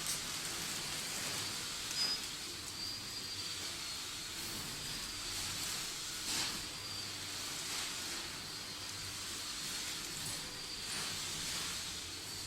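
Steady hiss of rushing air with a faint, wavering high whine, as from the small electric blower fan that keeps an inflatable costume inflated. A few brief soft brushing sounds come and go over it.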